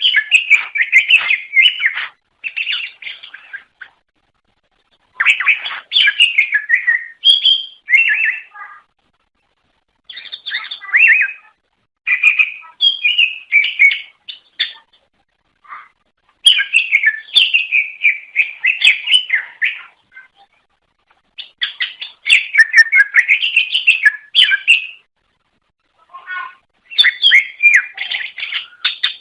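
Cucak ijo (green leafbird) singing: loud phrases of rapid, varied chirps and whistles, each a few seconds long, repeated with short pauses between them.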